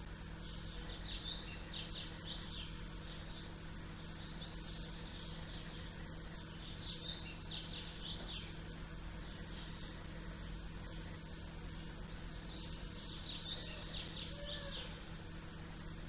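A small bird singing a short phrase of rapid high notes three times, about every six seconds, over a steady low background hum.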